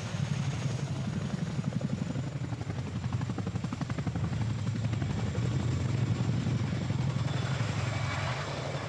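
CH-47 Chinook tandem-rotor helicopter running, its twin turboshaft engines and two counter-rotating rotors giving a steady low rumble with a fast, even beat of the blades.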